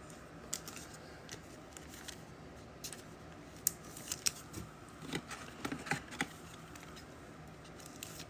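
Trading card packs and cards being handled and opened: scattered short, faint clicks and crinkles, coming more often in the middle.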